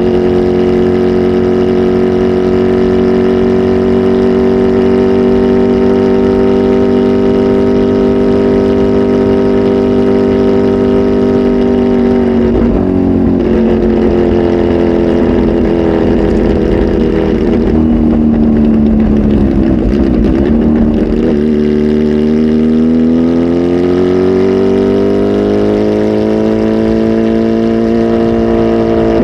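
Kawasaki Z H2 SE's supercharged inline-four, flash tuned and fitted with a full aftermarket exhaust, running loudly at a fairly steady engine speed. About halfway through the pitch drops and wavers, then climbs slowly over several seconds and holds.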